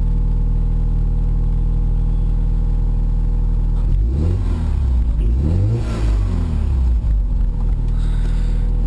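A Mazda RX-7's turbocharged rotary engine idling steadily on a cold start. About halfway through, the revs rise and fall two or three times over a few seconds, then settle back to a steady idle.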